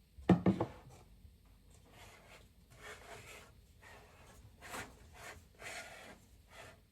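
Household handling sounds: a short clatter of knocks near the start, then several brief rubbing or scraping strokes.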